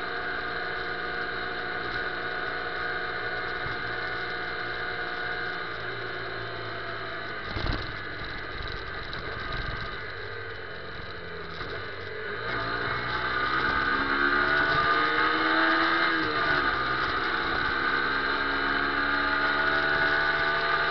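Motorcycle engine heard from on board: running steadily, then easing off and quieter for a few seconds, with a short thump about eight seconds in. From about halfway the engine accelerates, its pitch rising, dropping at a gear change, then rising again.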